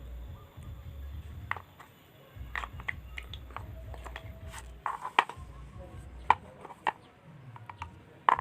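Irregular light clicks and knocks of small hard parts and tools being handled while building a toy slingshot rifle, a few ringing briefly, over a low rumble.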